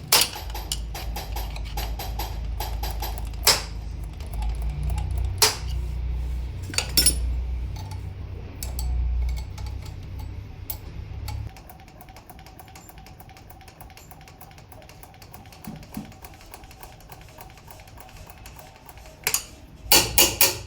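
Metal tools and parts clinking and knocking now and then, with a cluster of sharp knocks near the end, over a low steady hum that stops abruptly about halfway through.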